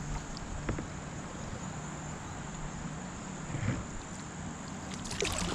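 Kayak paddle dipping and splashing in a river, with a few splashes near the end over a steady, high insect drone.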